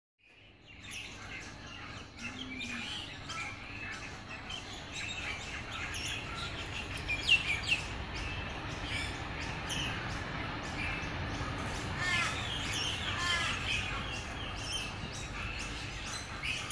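Birds calling throughout: a busy mix of short chirps, whistles and harsher calls.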